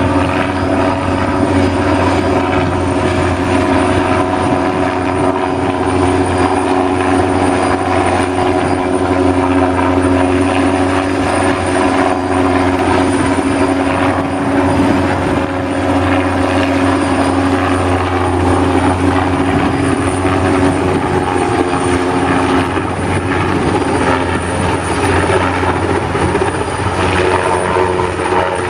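A machine running steadily: a loud, continuous drone with a constant low hum that does not change.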